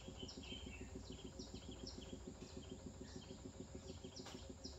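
Faint, repeated high chirps of small birds, a few each second in a regular pattern, over a low, fast, even pulsing hum.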